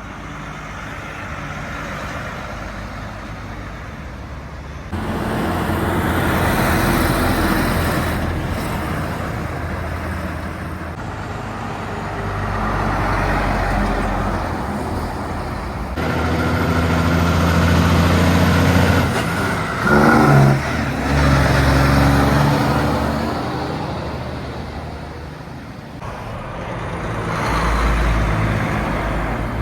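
Road traffic passing one vehicle after another, including heavy trucks with their diesel engines running, each swelling and fading as it goes by. The loudest passes come in the middle of the stretch, with a short change in engine pitch about two-thirds of the way through.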